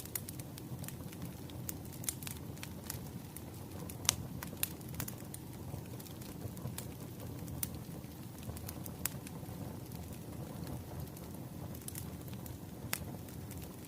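Crackling wood fire: a steady low rush with scattered sharp pops and crackles, the loudest about four seconds in.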